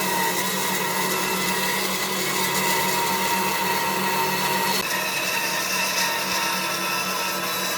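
Electric power tool motor running steadily under load on wood, a high-speed whine over a broad hiss, with an abrupt shift in the sound about five seconds in.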